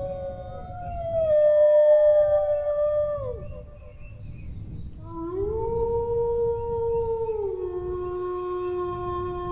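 Dogs howling: long held howls that slide down in pitch at their ends, with two voices overlapping in the first few seconds. After a short lull about halfway through, a new howl rises in, holds, then drops to a lower pitch and keeps going.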